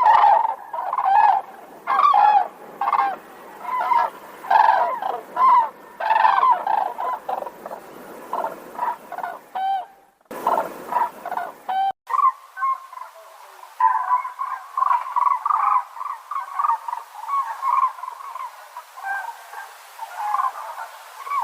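A bird calling over and over in short pitched calls, a couple a second, breaking off abruptly twice about halfway through and going on as denser chatter afterwards.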